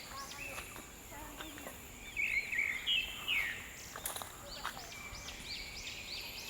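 Forest birds calling: a few whistled chirps, then a run of short, repeated rising-and-falling notes in the second half, over a thin steady high-pitched whine. A couple of sharp clicks sound about four seconds in.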